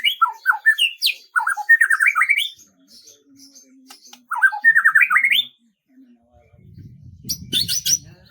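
A songbird singing: two matching phrases of quick rising notes, then near the end a short burst of high, rapid notes over a low rumble.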